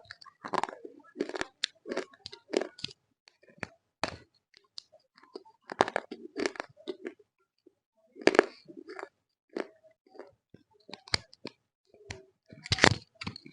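Close-up biting and chewing of roasted multani mitti (fuller's earth clay), with irregular sharp crunches. The loudest bites come about eight and thirteen seconds in.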